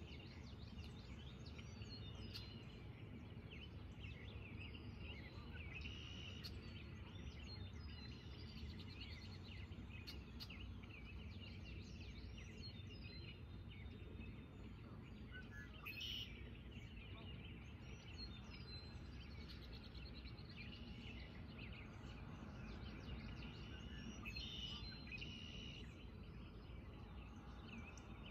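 Many short, high bird chirps and calls scattered throughout, over a steady low background rumble.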